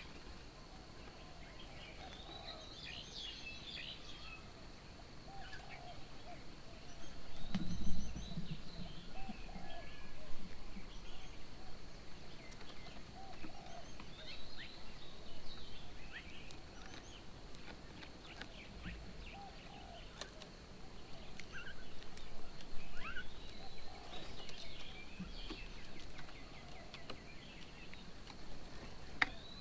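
Several birds calling and chirping around a garden bird table, a mix of short high chirps and lower calls. A brief low thud about eight seconds in is the loudest sound.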